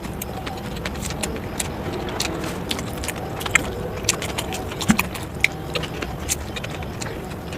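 Eating sounds: irregular sharp clicks and smacks of chewing, several a second, over a steady low rumble.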